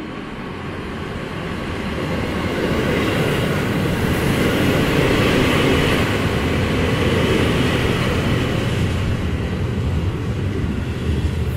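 JR Hokkaido electric commuter train pulling into the station alongside the platform: wheels rumbling on the rails and motor noise, growing louder over the first few seconds as the cars run past, then easing a little as it slows.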